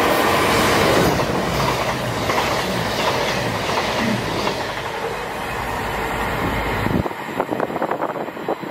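CrossCountry Class 221 Voyager diesel-electric multiple unit passing close at speed, with its underfloor diesel engines and wheels on the rails making a dense, loud running noise. About seven seconds in, the low rumble cuts off abruptly, leaving lighter scattered clicks.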